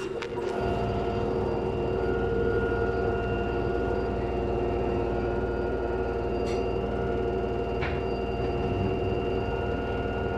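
LG washing machine spinning at high speed: a steady whine made of several held tones over a low drum rumble. Two faint ticks come about six and a half and eight seconds in.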